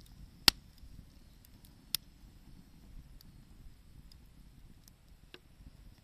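Wood fire crackling: a low steady rumble with a loud sharp pop about half a second in, another near two seconds, and a few fainter snaps after.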